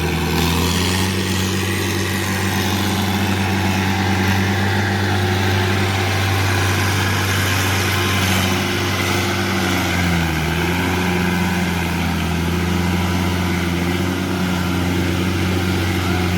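Tractor engine running steadily, its pitch sagging briefly about ten seconds in, as under a momentary load.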